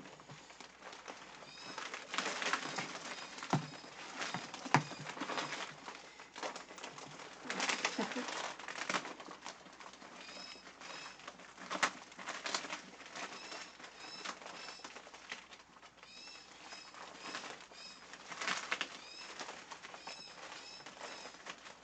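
A clear plastic PVC rain poncho rustling and crinkling in uneven swells as the wearer walks in the rain, with a few sharp clicks. Small birds chirp over it in short repeated calls.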